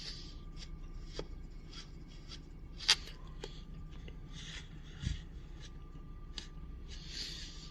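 Small handling noises: scattered light clicks and rustling, with one sharp click about three seconds in and a dull thump about five seconds in.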